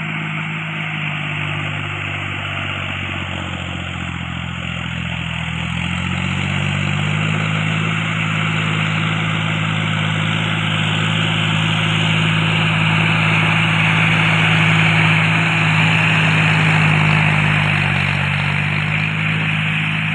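Tractor engine running steadily. Its note rises about a third of the way in, holds, then drops back near the end.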